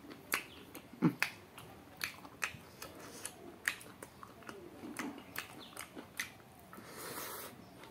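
A person chewing duck meat and rice with the mouth open, close to the microphone: irregular wet smacks and clicks from lips and tongue. A short hiss comes near the end.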